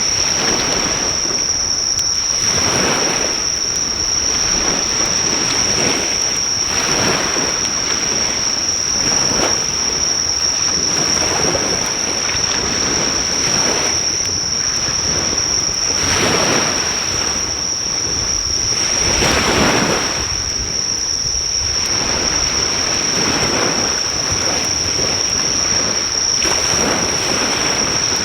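Sea waves breaking and washing on the shore, swelling and falling every couple of seconds, with a constant high-pitched drone of insects over them.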